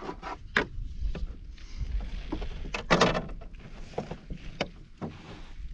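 Knocks and clatter in a small fishing boat, with splashing water, as a hooked bass is brought in and landed.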